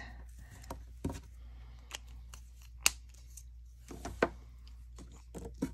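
Quiet, scattered light clicks and taps with faint scratching: Stampin' Blends alcohol markers being handled and drawn over cardstock while colouring. The sharpest clicks come about a second in, near the middle, and just before the end.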